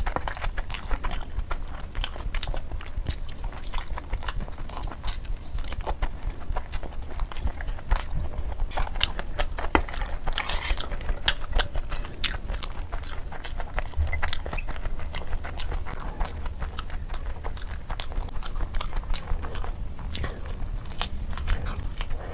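Close-miked eating sounds: wet chewing, lip smacks and the squish of fingers in rice, as biryani and curry are eaten by hand. The clicks come thick and irregular, with a brief louder noisy burst about halfway through.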